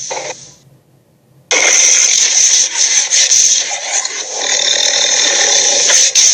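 Dragon sound effects: one harsh, raspy creature sound dies away in the first half second. After a short gap, a new long, harsh creature vocalisation starts abruptly about a second and a half in and keeps going.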